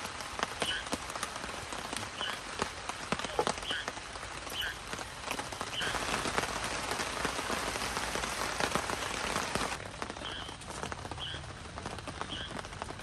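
Rain falling steadily, with many separate drops ticking on a nearby surface. It grows heavier midway and eases abruptly about ten seconds in. A small animal's short high call repeats about once a second over it.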